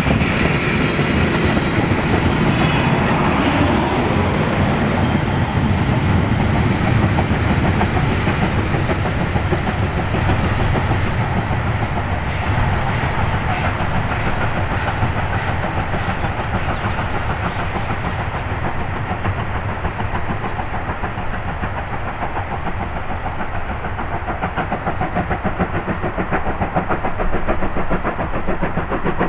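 Vintage passenger train hauled by a steam locomotive with an electric locomotive pushing at the rear, running past and away on the track: a steady rolling rumble and clatter of wheels on rail. It grows duller about 11 seconds in and again a few seconds later as the train draws off.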